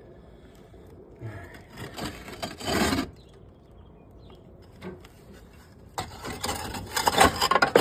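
A hand tool scraping and grating against masonry in two bouts of about two seconds each, with a pause between.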